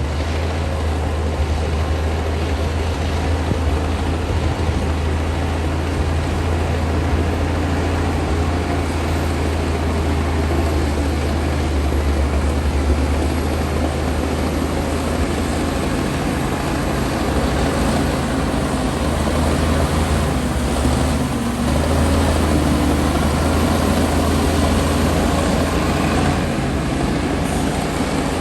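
Komatsu D60P swamp bulldozer's diesel engine running steadily under work, a deep drone with a broad mechanical rush over it, getting a little louder about two-thirds of the way through.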